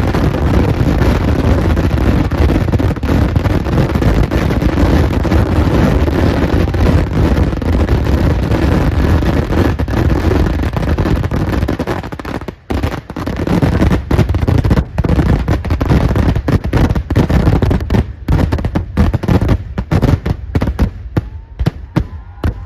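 Daytime festival fireworks (Kerala vedikettu): a dense, unbroken barrage of firecracker bangs. After about twelve seconds it breaks into separate bangs that come further apart and thin out toward the end.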